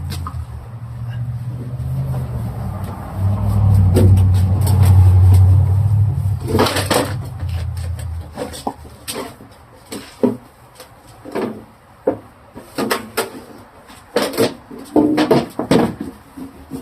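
A low, steady hum swells a few seconds in and fades out about halfway through. Then come irregular clicks and knocks of objects being handled.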